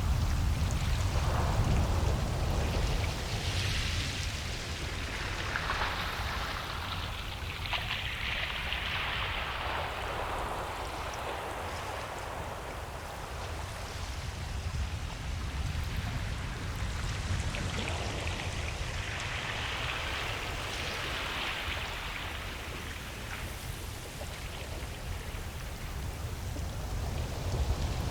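Ocean surf breaking and washing up a beach: a steady hiss that swells and fades in slow surges every several seconds, over a constant low rumble.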